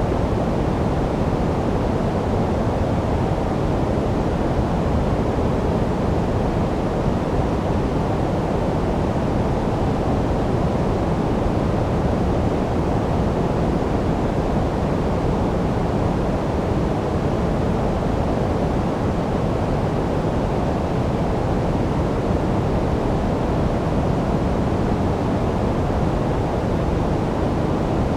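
Steady, unbroken sleep noise of the kind sold as white noise. Its weight lies mostly in the low end, so it sounds like a deep, even rush rather than a bright hiss.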